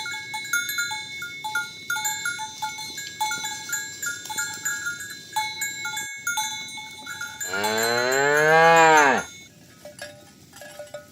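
Cowbells on a herd of cattle clanking irregularly as the cows walk, with one long, loud moo from a cow about two thirds of the way through. Near the end the bell strikes are softer and lower in pitch.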